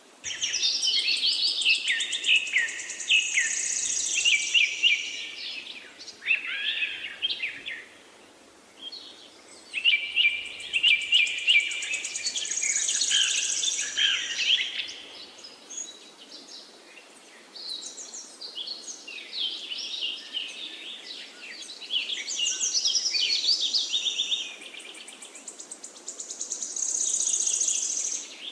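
Several songbirds singing and chirping in quick, overlapping phrases, in bouts of a few seconds broken by short lulls.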